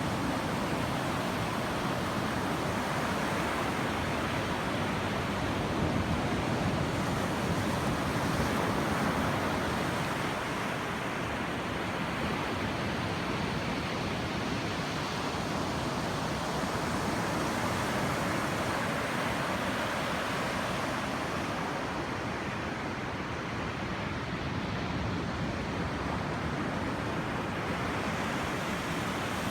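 Surf washing onto a sandy beach: a steady rushing hiss that swells and eases slowly over many seconds.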